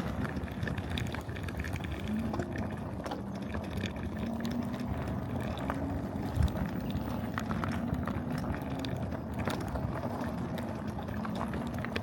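Mini bike engine running at riding speed, its tone rising and falling slightly, with wind rumble on the microphone. There is a sharp thump about six seconds in.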